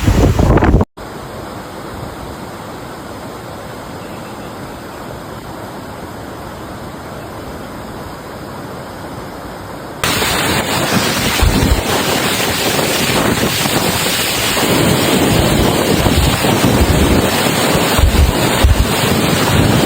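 Steady rushing-water noise in two stretches. First comes an even, quieter hiss. About ten seconds in there is an abrupt change to louder rushing water with wind thumping on the microphone.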